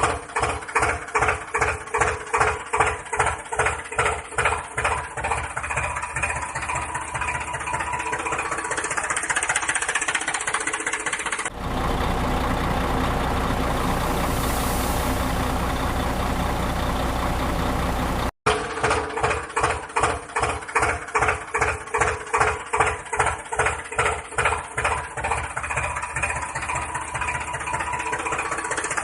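Tractor engine chugging at a slow idle, about three even beats a second. In the middle it is cut off suddenly for several seconds of steady rushing engine noise, then the same chugging comes back just as suddenly.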